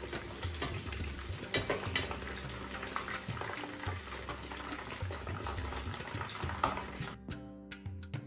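Breaded chicken balls sizzling in hot oil in a non-stick frying pan, with scrapes and taps of a slotted spoon against the pan as they are turned and lifted out browned. About a second before the end the sizzling cuts off and music with light percussive taps begins.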